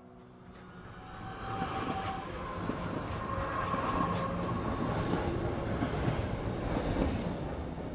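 Train passing: wheels running on the rails with a rumble and a thin, steady wheel squeal, building about a second in and fading near the end.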